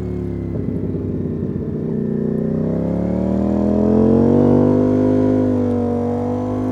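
Ducati Panigale V4 S's 1103 cc V4 engine heard onboard: revs falling off, a rough uneven burble at low revs for about a second and a half, then the engine pulls up through the revs under throttle, getting louder and holding high near the end.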